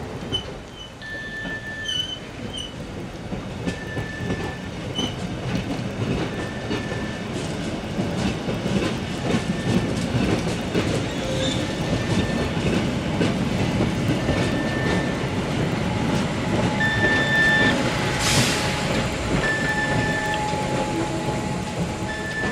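A Rhaetian Railway train passing slowly along the platform, its wheels clattering over the rail joints and growing louder, with a short hiss about eighteen seconds in. A faint short high tone repeats about every second and a half.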